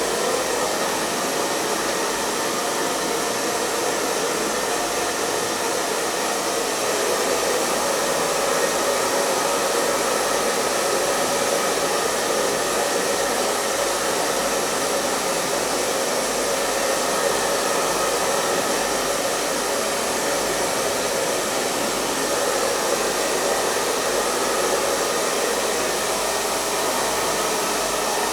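Hair dryer blowing steadily, a continuous airy rush of fan and airflow with a faint hum.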